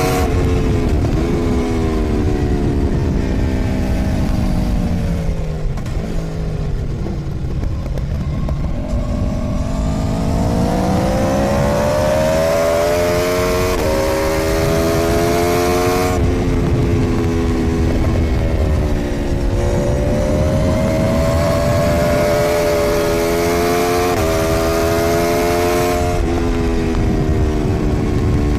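Aprilia Tuono V4's V4 engine heard from onboard at track speed, over heavy wind rush. The revs fall steadily for several seconds as the bike slows, then climb hard under acceleration. Quick upshifts drop the pitch sharply, twice in a row, and this happens twice.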